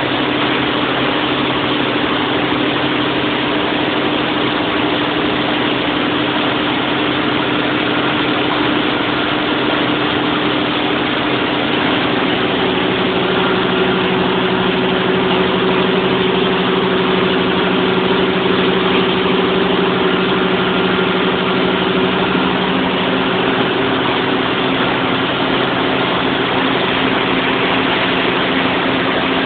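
Large generator-set engine running steadily. About twelve seconds in, its tone shifts slightly higher and then holds.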